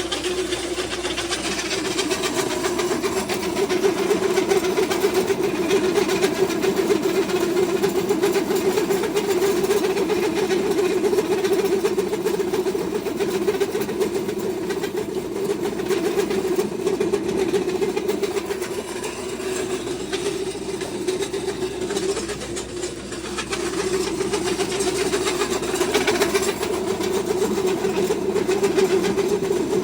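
Pellet feed mill running with a steady mechanical drone, easing off slightly about two-thirds of the way through before picking up again.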